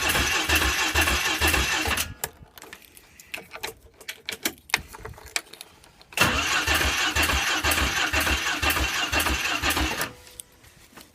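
Electric starter cranking a cold engine in two attempts, slow even chugs without it catching, separated by a few seconds of quieter clicks. The engine won't fire because its choke cable is frozen in the cold.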